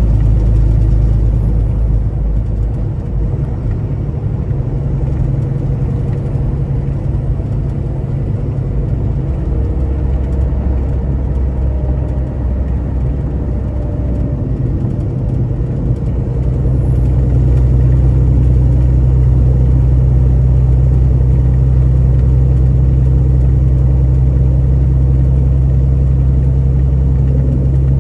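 Semi truck's engine and road noise: a steady low drone that eases a little about three seconds in and grows louder again about sixteen seconds in.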